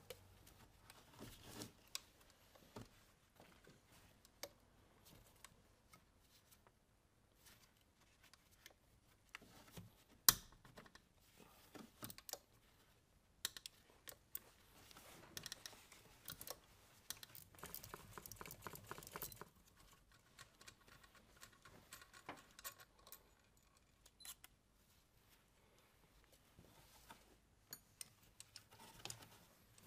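Quiet workshop handling noises from hand tools and metal parts: scattered clinks and taps, a sharp knock about ten seconds in, and a run of rapid, evenly spaced clicks lasting about four seconds midway.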